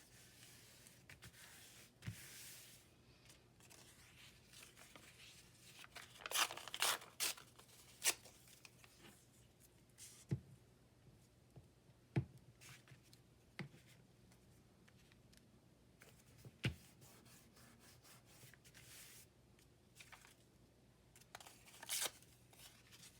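Paper being torn by hand into small pieces and handled for a collage: short rips, loudest in a cluster about six seconds in and again near the end, with a few sharp taps between them.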